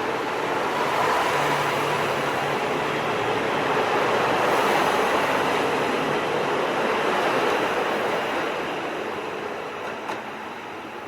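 Diesel train moving through the station: steady running noise from the train and rails that swells about four to five seconds in, then fades away, with a short click near the end.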